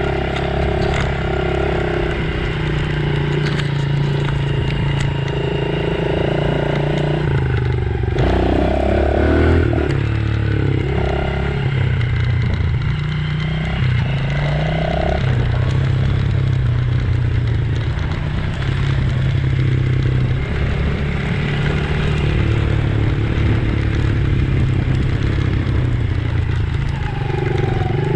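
Dirt bike engine running while being ridden, its note stepping up and down again and again as the revs change.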